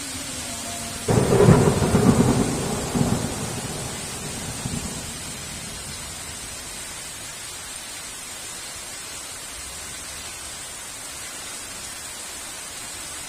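A thunderclap in heavy rain: a sudden crack about a second in, followed by a few more cracks and rumbling that fade over the next few seconds. Steady rain hiss continues underneath.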